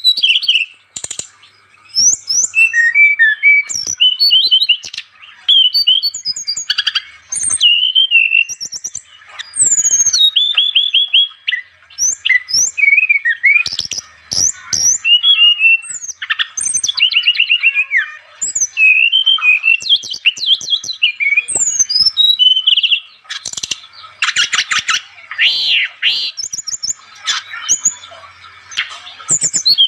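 An SRDC songbird in full, non-stop song ('gacor'). It pours out rapid trills, whistled notes that rise and fall, and sharp chips, with barely a pause between phrases.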